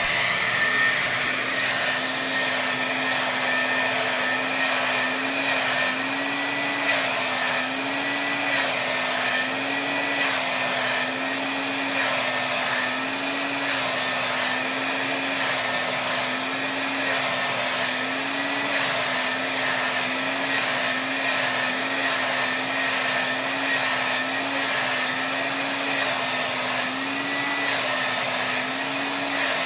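Hair dryer running on full air, a steady rush of blown air over a motor hum whose pitch lifts slightly every second or so.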